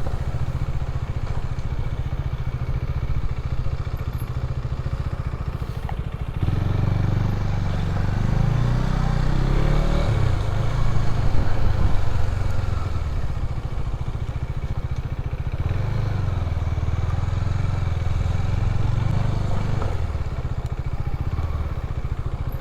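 Motorcycle engine running while riding, a low pulsing rumble. It speeds up twice, its pitch rising and getting louder, then eases off.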